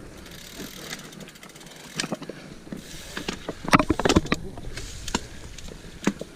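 Full-suspension mountain bike clattering over rough trail: scattered sharp knocks and rattles of chain and frame, with a fine rapid freehub ticking about a second in and the loudest burst of clattering around four seconds.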